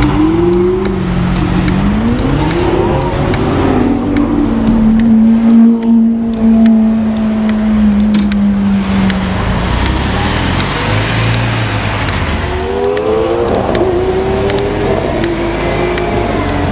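Car engines in traffic heard from an open-topped car: the engine pitch rises as it accelerates near the start, holds a steady drone for several seconds, then climbs again near the end, over constant road and wind noise.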